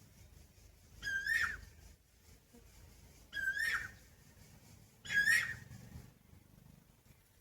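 Asian koel (koyal) calling three times, about two seconds apart. Each call is a short, clear whistled note that is held briefly, then bends upward and drops away.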